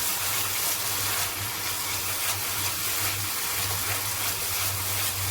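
Curry masala sizzling steadily in a hot wok, with an even hiss and a low hum beneath it.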